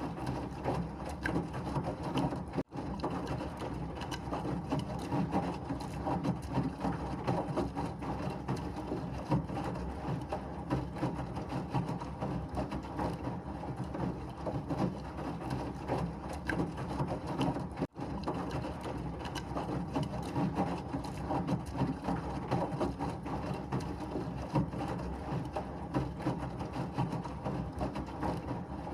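Washing machine running steadily, a dense rushing noise with a constant patter of small clicks and knocks. It drops out for an instant twice, about three seconds in and again near eighteen seconds.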